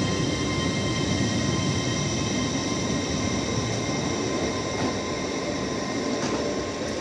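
Hull Trains Class 802 bi-mode train pulling out and drawing away: a steady running rumble with high whining tones, slowly fading as it pulls off.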